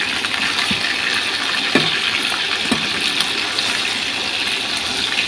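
Pork spare ribs sizzling steadily in hot oil in a frying pan, with a few soft clicks of metal tongs turning them.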